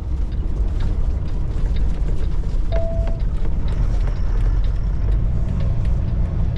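Semi truck heard from inside the cab: a steady low engine and road drone, with faint light clicks and one short beep about three seconds in.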